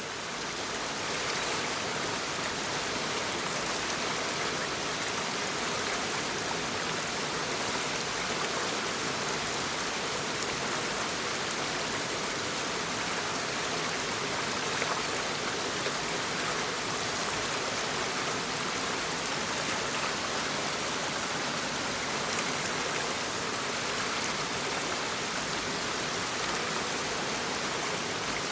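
Babbling brook: shallow running water flowing steadily, fading in over the first second or so.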